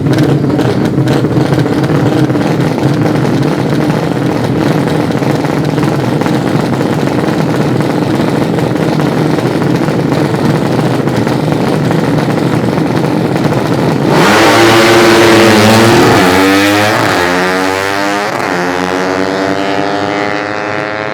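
Racing underbone motorcycle engines running steadily with a rough crackle, then about 14 seconds in a sudden loud launch: a 200cc drag bike at full throttle, its engine pitch climbing through the gears as it pulls away and slowly fades.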